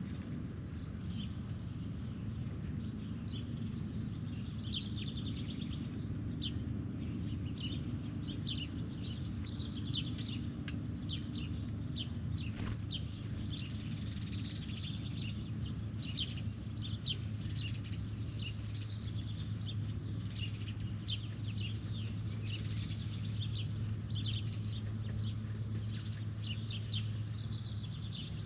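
Wild birds chirping, many short high chirps coming one after another, over a steady low hum.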